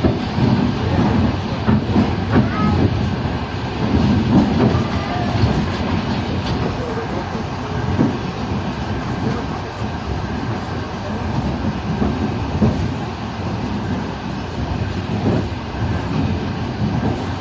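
Passenger train carriage rolling along the track: a steady low rumble with irregular knocks and clatter from the wheels.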